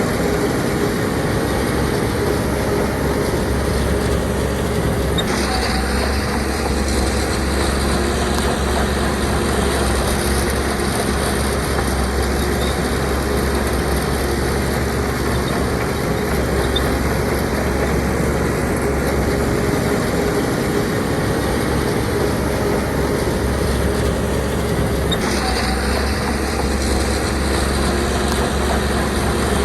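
Heavy diesel earthmoving machinery running steadily, a bulldozer or dump truck engine working while sand is pushed. The sound shifts abruptly about five seconds in and again near the end.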